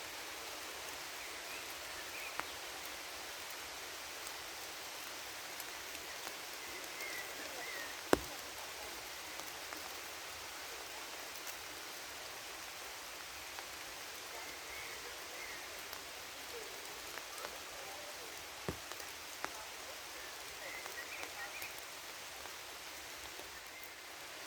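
Steady rain falling in a forest, an even hiss with scattered sharper drips; one drop lands noticeably louder about eight seconds in.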